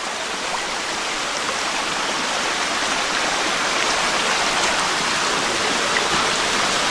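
Steady rush of flowing stream water, slowly growing louder.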